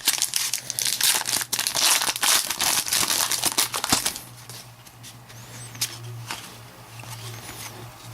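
Foil trading-card pack being torn open and crinkled, loud for about the first four seconds, then quieter rustling as the cards are handled.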